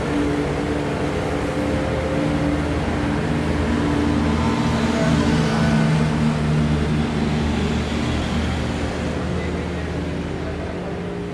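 Sport motorcycle engines running, several at once, growing louder about midway and fading toward the end.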